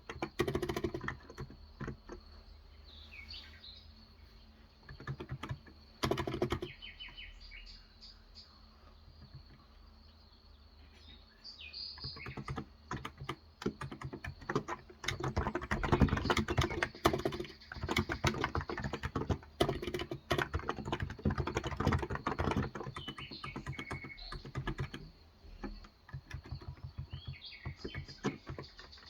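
Typing on a Cox Endeavour tenkeyless electro-capacitive keyboard with 35 g switches: sparse keystrokes for the first ten seconds or so, then fast continuous typing. Birds chirp briefly now and then in the background.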